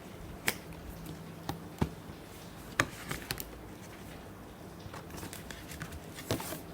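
Apple Watch Series 5 retail box being handled and opened: scattered light clicks and taps of cardboard and packaging, a second or so apart, with a short rustle near the end.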